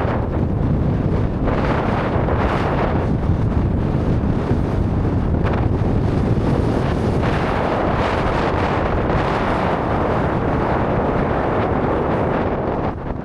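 Strong wind blowing across the microphone, a loud, steady rush of wind noise that eases only at the very end.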